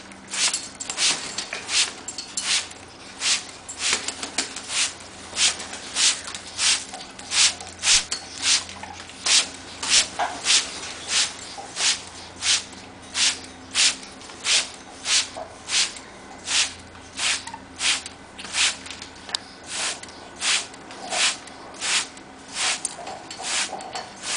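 Water splashing or spraying during a parrot's bath: short hissing bursts repeating evenly, about one and a half a second.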